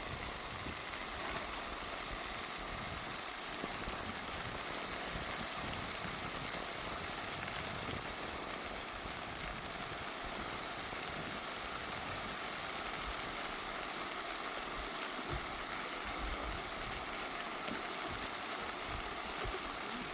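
Steady rush of water noise, an even hiss without a break.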